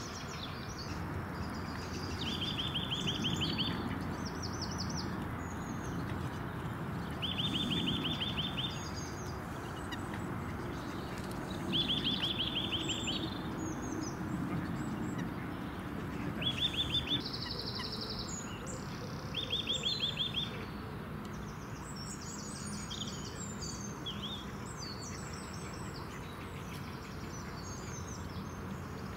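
Wild birds singing: a rapid trill repeated about five times, each lasting a second or so, among scattered high chirps, over a steady background noise.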